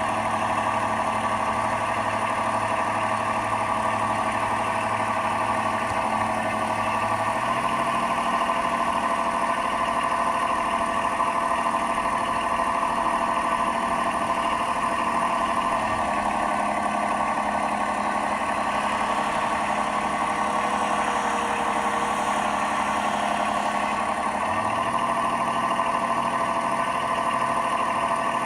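Simulated diesel engine sound from the onboard sound unit of a 1/12 scale Tyne class lifeboat model, running steadily but jumping abruptly in pitch three times. The sound is erratic because the speed controller it was connected to was failing.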